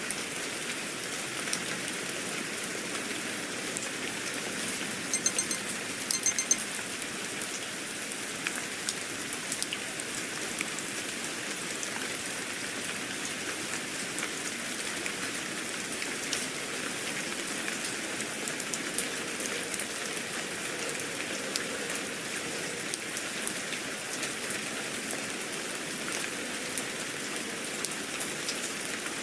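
Steady rain ambience, a dense hiss of rainfall with many small drops pattering on a surface. About five seconds in, a short high-pitched chime sounds briefly over the rain.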